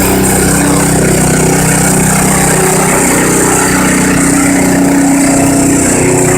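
A 1960s–70s Wheel Horse garden tractor's engine running steadily under load as it pulls the weight-transfer sled.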